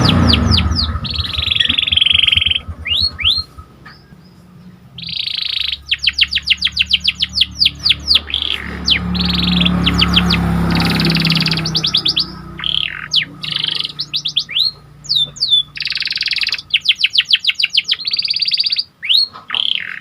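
Domestic canary singing: long runs of rapid repeated notes alternate with dense buzzy rolls and quick rising and falling whistles, with short pauses between phrases. A low hum lies underneath.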